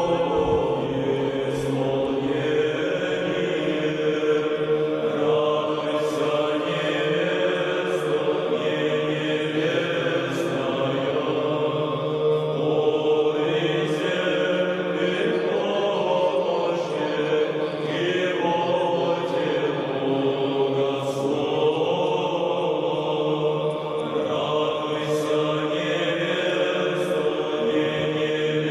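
Orthodox church chant sung by a crowd of worshippers, many voices holding a steady, unbroken line.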